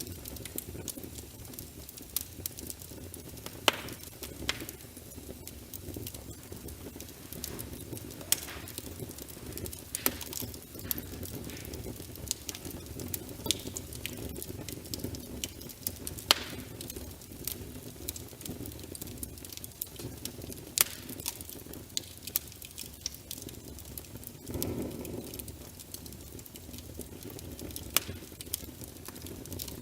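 Wood fire crackling in a fireplace: a steady low rumble of burning with sharp pops and snaps at irregular intervals, and a brief louder low swell near the end.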